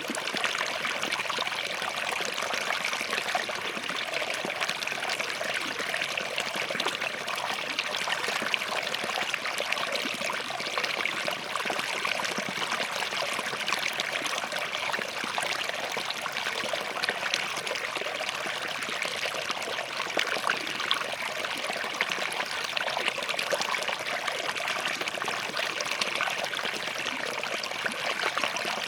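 Small forest stream flowing between rocks: steady babbling and trickling water with many small splashes.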